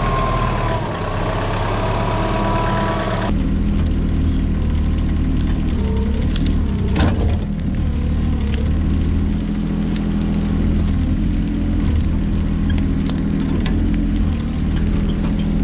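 An engine running steadily at a low, even speed. The sound changes abruptly about three seconds in, and light knocks and clicks come through over it after that.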